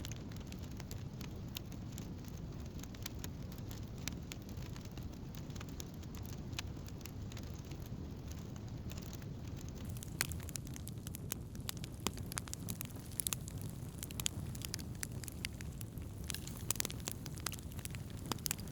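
Wood campfire burning: a steady low rush of flames with sharp crackles and pops of burning wood, which come more often in the second half.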